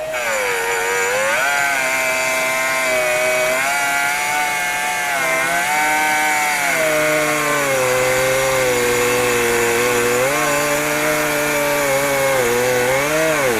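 Die grinder with a sanding disc running and sanding a worn ATV brake rotor to smooth down its ridges, its whine rising and sagging in pitch as it is pressed against the disc, with a dip near the end, over a steady gritty hiss.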